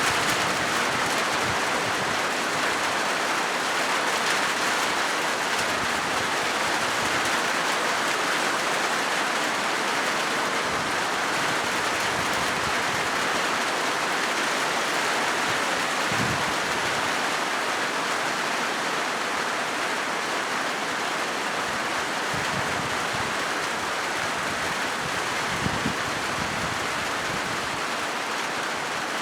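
Steady heavy rain falling on a corrugated zinc roof: a dense, even hiss with a couple of brief low thuds.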